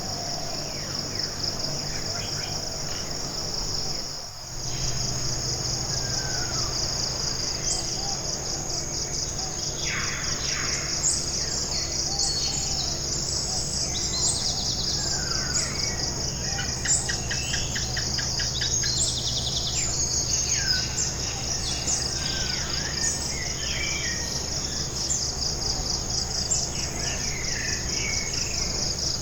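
Tropical forest ambience: a steady, high-pitched chorus of insects, with scattered bird calls and chirps over it. The sound drops briefly about four seconds in, then resumes.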